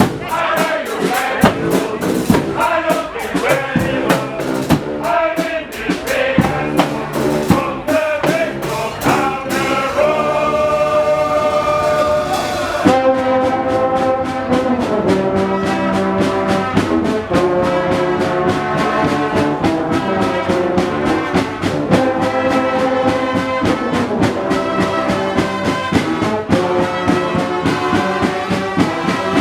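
Guggenmusik carnival band playing loud brass (trumpets and trombones) over a driving drum beat. About ten seconds in the brass holds one long chord while the drumming thins out, then the band plays on with the beat.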